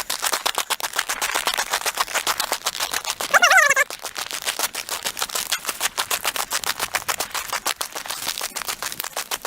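Footsteps crunching through snow in a quick irregular series of sharp crackles. About three and a half seconds in there is a brief wavering squeaky whine.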